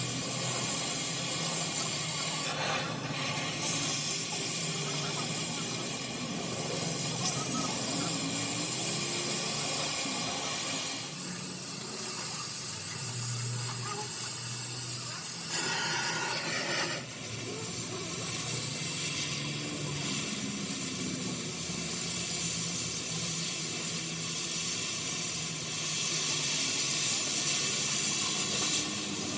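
Steady hissing noise over a low hum. The hiss thins for a moment about eleven seconds in and swells briefly around sixteen seconds.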